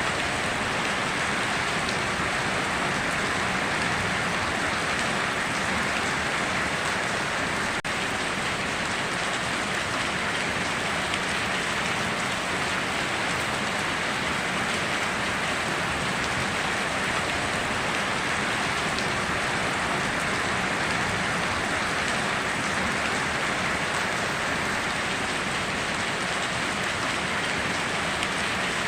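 Steady rainfall, an even, unbroken hiss of rain with no thunder.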